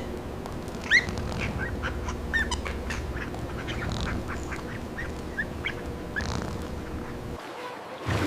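Birds calling: many short, separate calls, some rising at the end, over a steady low rumble.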